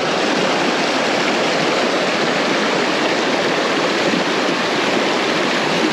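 Mountain stream rushing steadily over rocks, an even noise that stays at the same level.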